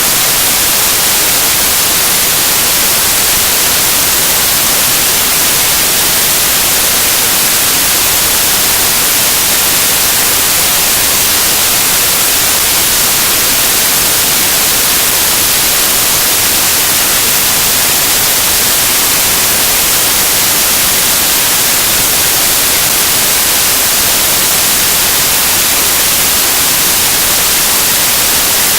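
Loud, steady static hiss like white noise, unchanging throughout, with no other sound over it.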